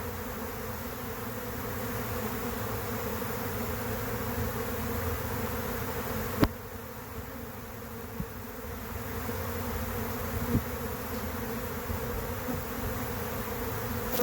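Honey bee swarm in flight as it leaves the hive: a steady, dense buzzing drone of thousands of wingbeats. A single sharp click sounds about halfway through.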